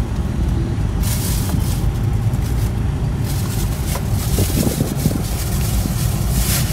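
Mitsubishi Adventure's engine running at idle, heard from inside the cabin as a steady low rumble, with some hiss coming and going.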